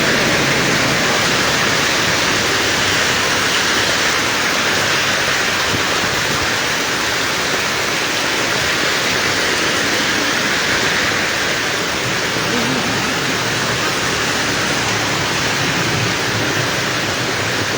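Heavy rain pouring down steadily in a strong wind.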